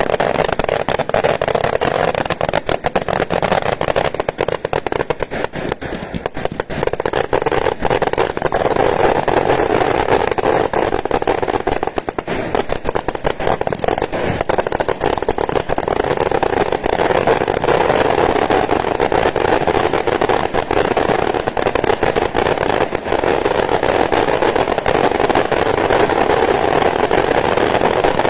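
Large bonfire burning: dense crackling and popping over a steady roar.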